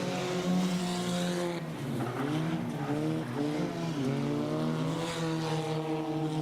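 Several junk race cars' engines running at speed together. From about two seconds in, their pitches rise and fall as the drivers lift and get back on the throttle through the turns.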